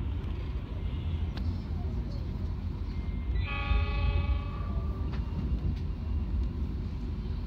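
Steady low rumble of a moving passenger train heard from inside the coach. About three and a half seconds in, a train horn sounds once for about a second and a half.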